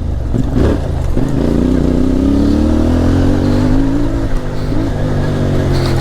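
CFMOTO 450MT's 449 cc parallel-twin engine running under throttle as the bike is ridden, the revs climbing in the first second and then holding with small rises and dips.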